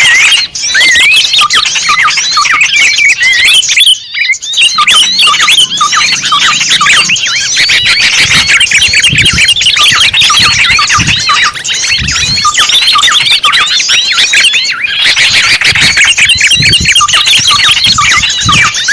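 Dense chorus of many small birds chirping and twittering in quick overlapping notes, a lure recording for attracting small birds. It breaks off briefly twice.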